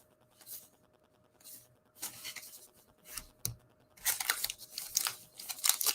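Trading card packs and wrapper being handled: scattered faint rustles and a couple of light taps, then louder crinkling and tearing of wrapper from about four seconds in.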